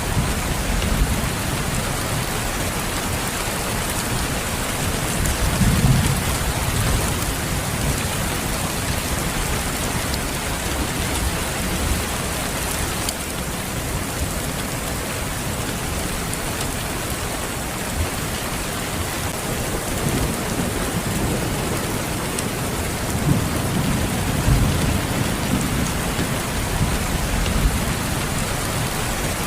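Steady heavy rain, with low rumbles of distant thunder swelling about six seconds in and again about three-quarters of the way through.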